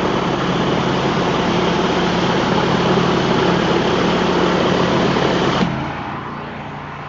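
Engine-driven pressure washer spraying concrete: the water jet hisses loudly over the steady drone of the rig's engine. About five and a half seconds in, the spray cuts off suddenly and the engine keeps running on its own.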